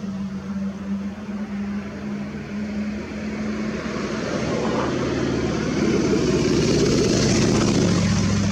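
A motor vehicle engine running with a steady low hum, growing louder in the second half.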